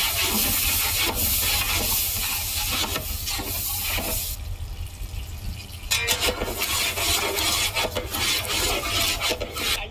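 Chopped tomatoes sizzling in hot oil in a large pot as they are stirred, with a ladle scraping through them. The hiss drops for a moment a little past the middle, then comes back with quick scraping strokes.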